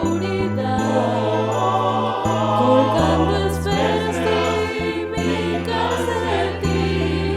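A choir singing a Christmas song over sustained low bass accompaniment that changes note every second or two.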